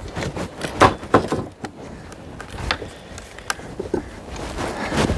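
Pry bar levering pieces off a high tunnel frame: a few separate sharp knocks and scrapes, the loudest about a second in.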